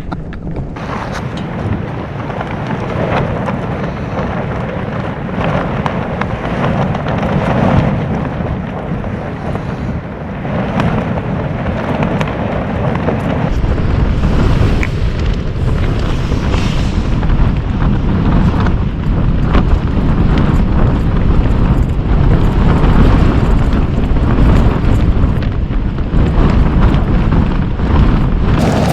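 Storm wind gusting against the tent and rumbling on the microphone. It builds to a heavier, louder buffeting from about halfway through.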